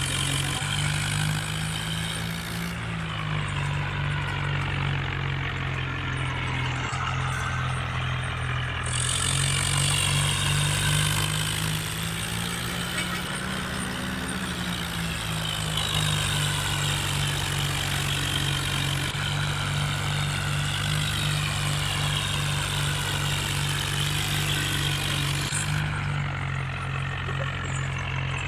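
John Deere 5050 tractor's diesel engine running steadily, its speed rising briefly about two seconds in and again around thirteen seconds.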